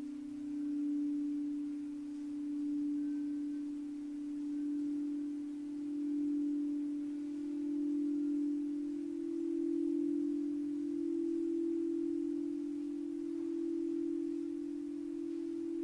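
Singing bowl being played, one sustained low, almost pure tone that swells and fades about every two seconds, shifting slightly higher in pitch about nine seconds in.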